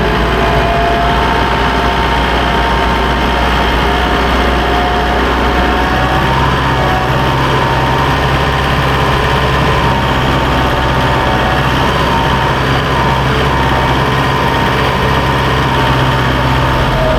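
Farm tractor engine running steadily, its note changing about six seconds in.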